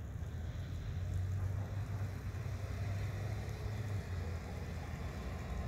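A sedan's engine running as the car turns slow circles on snow, heard at a distance as a steady low rumble.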